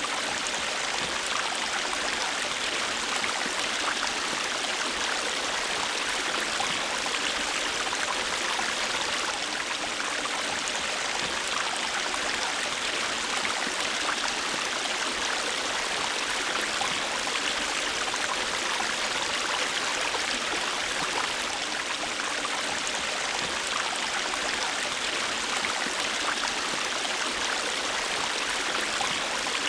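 A river or stream running over rocks: a steady, even rush of flowing water.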